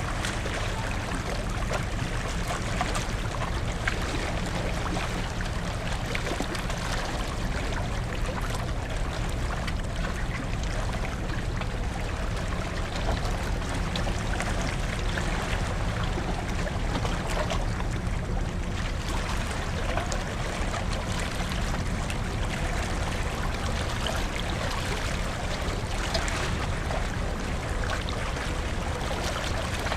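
Water rushing past the hull of the car ferry New Akashi under way, with a steady low drone of the ship's engines underneath.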